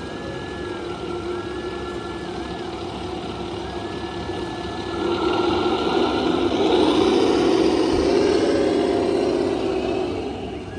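Radio-controlled model construction trucks working: a thin high motor whine that starts and stops several times, gliding up and down at each start and stop, over a steadier mechanical drone that grows louder about halfway through and eases off near the end.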